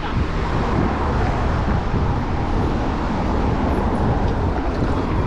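Steady city road traffic noise mixed with wind rumbling on the microphone of a bike-mounted camera while riding.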